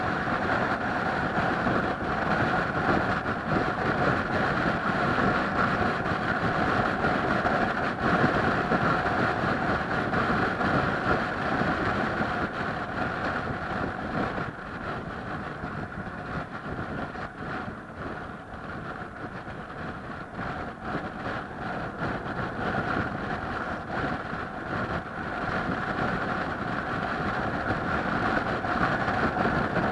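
A vehicle's engine drones steadily under way. It eases off somewhat about halfway through and builds again near the end.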